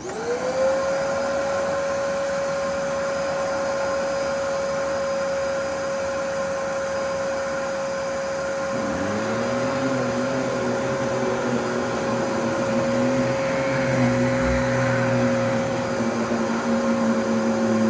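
Fantom Lightning upright vacuum cleaner switched on: the motor spins up within about half a second to a steady high whine and runs on evenly. About nine seconds in, a second, lower hum joins it.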